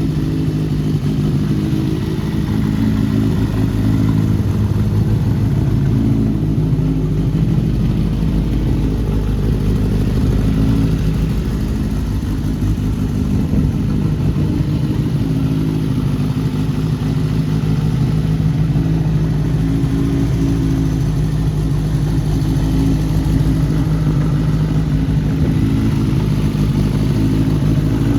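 Kawasaki Z750GP's air-cooled 738 cc inline-four, fitted with CR carburettors and an aftermarket muffler, running at a steady idle.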